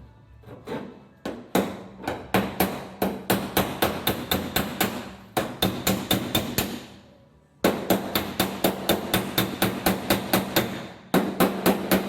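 Body hammer striking a welded steel patch against a dolly on a car's rear quarter panel: rapid, sharp metallic taps, about three a second, in runs with short pauses. This is planishing the weld and patch to smooth them.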